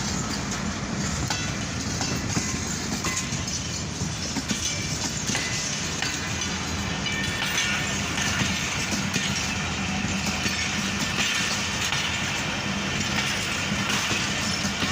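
Pak Business Express passenger train running steadily along the track: a continuous rumble with wheels clicking over the rail joints.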